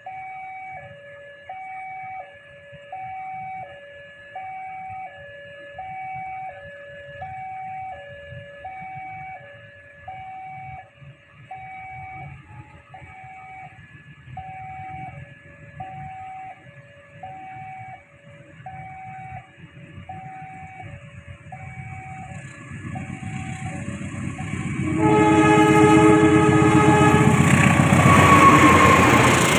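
Level crossing warning alarm sounding its two alternating tones, roughly one high-low pair a second. A train then approaches with a rising rumble, and about 25 s in it sounds a long, loud horn over the noise of its passing.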